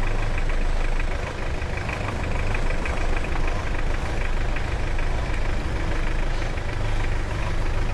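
A vehicle's engine running steadily, a low continuous sound with no let-up.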